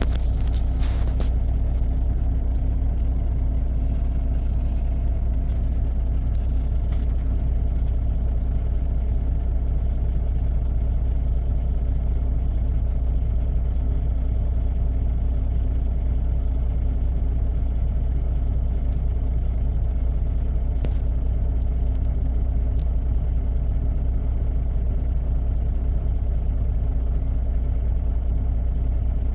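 Diesel semi-truck engine idling: a steady, unchanging low rumble with a constant hum.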